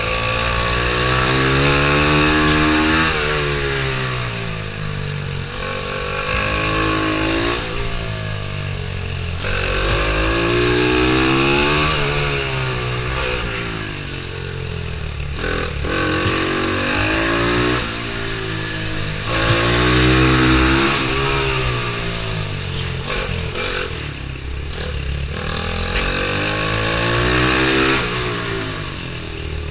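Pit bike's single-cylinder engine under hard racing throttle, its pitch climbing and dropping again and again as it is revved out and backed off, roughly every three to four seconds.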